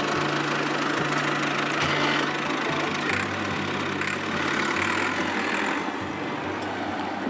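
A motor running steadily, with a constant low hum under a noisy whirr.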